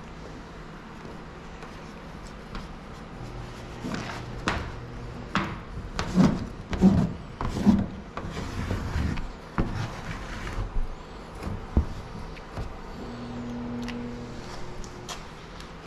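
Irregular knocks, bumps and rubbing from hands and tools working on a car's body, loudest and busiest around the middle, over a faint steady hum.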